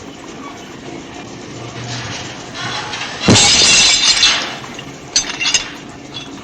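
A loud crash of hard objects clattering together, about three seconds in and lasting about a second, followed by a few sharp knocks.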